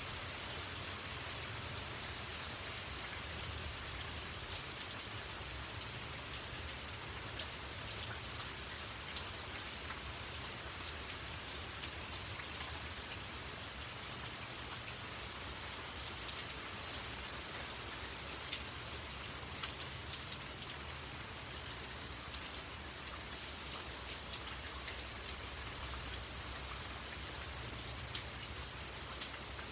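Steady rain falling on puddled ground and garden foliage, with scattered individual drops ticking close by.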